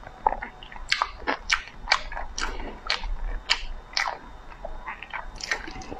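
A person chewing a salmon sushi roll close to a lapel mic: a steady run of wet mouth clicks and smacks, roughly two a second.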